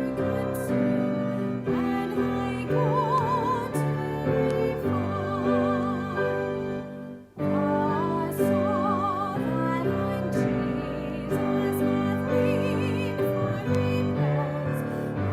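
A song: a singer holding notes with strong vibrato over instrumental accompaniment, breaking off for a moment about seven seconds in.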